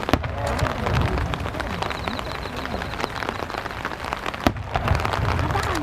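Rain pattering as a dense run of small taps, over a low rumble from the fireworks and faint crowd voices. Two sharp clicks stand out, one at the very start and one near the end.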